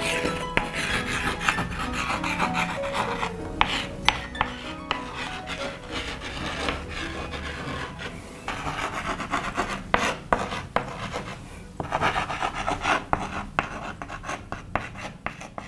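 Rasping, scraping and rubbing sounds with many sharp clicks and taps, over faint music.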